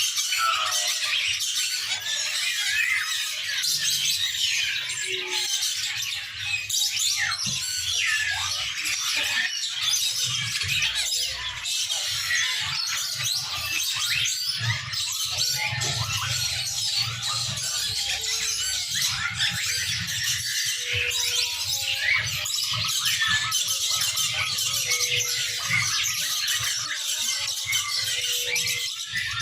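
Many songbirds chirping and calling at once: a dense, continuous chatter of short, high chirps and quick up-and-down whistles.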